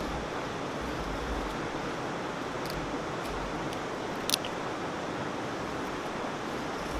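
Steady rush of a waterfall's falling water, with a short sharp click a little over four seconds in.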